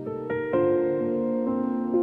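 Slow, soft piano-like keyboard music: sustained chords, with new notes struck a few times and left to ring.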